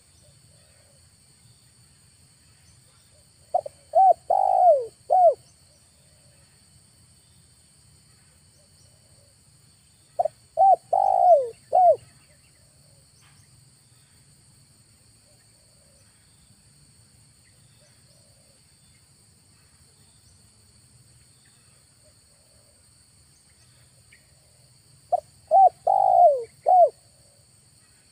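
Spotted dove (tekukur) cooing: three phrases of about four notes each, several seconds apart. This is the call of a decoy dove used to lure wild doves.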